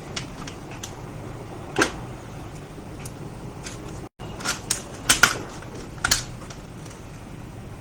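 Scattered sharp clicks and taps of small laptop parts and tools being handled, one about two seconds in and a quick cluster around five seconds, over a steady low hum. The sound drops out briefly just after four seconds.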